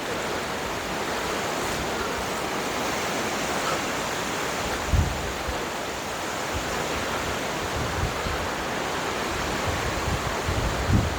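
Strong wind rushing over the microphone, a steady noise with low buffeting gusts about five seconds in and again near the end.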